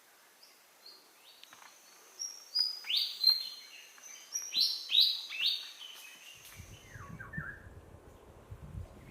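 Birds chirping in a tropical rainforest: quick bursts of short, downward-sliding chirps, loudest in two clusters in the first half, over a thin steady high-pitched hum. A low rumble comes in during the last few seconds.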